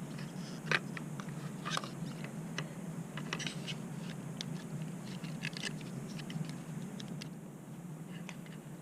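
Scattered light clicks, taps and scrapes of hand work on vehicle parts, over a steady low hum.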